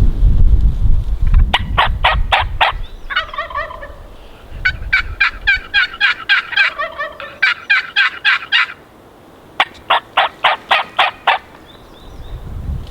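Gould's wild turkey gobblers gobbling, in several runs of rapid rattling notes, one long run of about four seconds in the middle. Wind rumbles on the microphone at the start.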